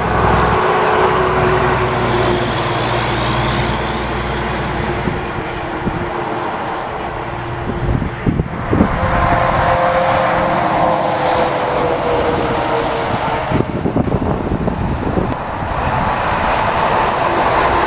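Heavy trucks running and driving by on the road: a steady engine drone, with a tone that slowly falls in pitch in the middle and a few sharp knocks about eight seconds in.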